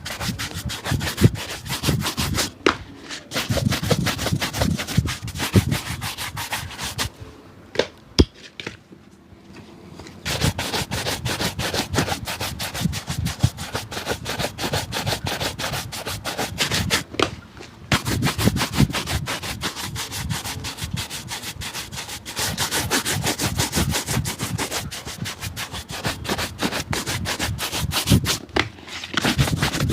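Fast back-and-forth rubbing strokes on a shoe, many strokes a second, pausing briefly about seven seconds in and again around seventeen seconds in, with a sharp tap during the first pause.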